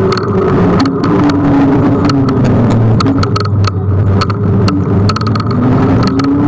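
Kugoo G1 electric scooter on the move: a motor whine that rises and falls with speed over a steady low hum, with many short clicks and rattles from the ride.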